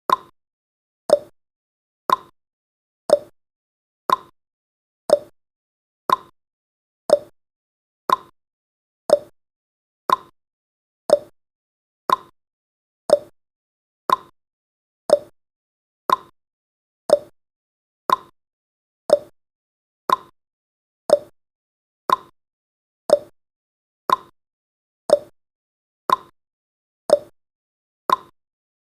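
Tick sound effect of a countdown timer, one sharp tick each second, alternating between a higher and a lower tick like a clock's tick-tock.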